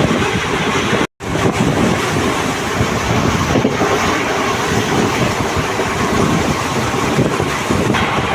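Passenger train running, a steady rushing noise with wind buffeting the microphone. The sound cuts out completely for a moment about a second in.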